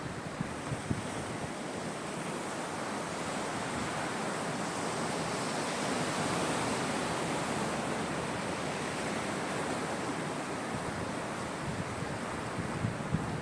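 Sea waves washing ashore: a steady rush of surf that swells to its loudest about halfway through and then eases off.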